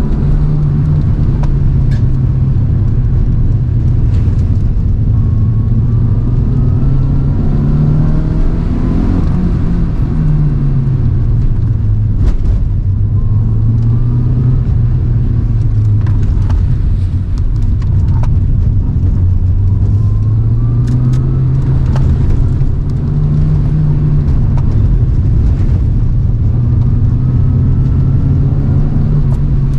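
Toyota AE111 Trueno's four-cylinder engine under hard driving on a sprint run. It revs up and falls back several times as it accelerates and lifts or shifts through corners, and short clicks and knocks come through over the engine.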